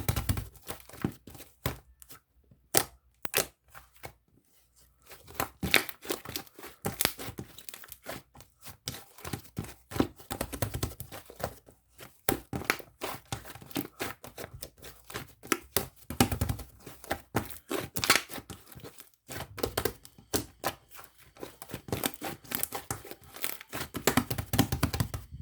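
Cloud slime being squeezed, stretched and pulled apart by hand, making a dense run of soft crackling and tearing sounds with a couple of short pauses.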